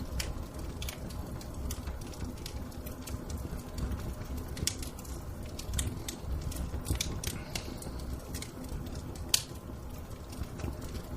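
Fire in a fireplace crackling: irregular small pops over a low steady rumble, with one sharper pop about nine seconds in.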